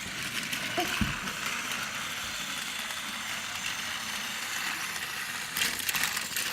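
Battery-powered motorized toy train whirring steadily as it runs along the track, working its way through a rough stretch, with a burst of rattling clicks near the end.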